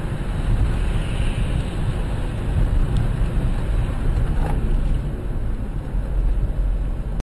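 Steady low rumble of road and wind noise from a moving car, as picked up by a dashcam microphone, with a faint click about four and a half seconds in; it cuts off abruptly near the end.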